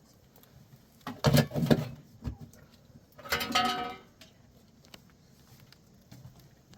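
Two short animal calls about two seconds apart, the second a clear pitched bleat, with a sharp click between them; sheep bleating.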